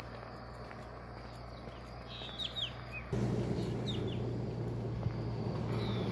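Birds chirping in short, quick downward-sweeping calls over a moving vehicle's steady low hum. About three seconds in, the hum and a rushing noise suddenly get louder.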